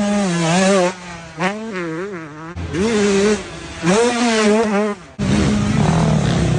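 KTM 125SX's single-cylinder two-stroke engine running under throttle, its pitch rising and falling as the revs go up and down, with abrupt breaks about two and a half and five seconds in.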